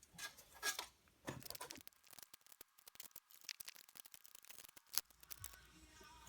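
Irregular scraping and crackling from hand work, then a quick run of small clicks, with one sharp click about five seconds in.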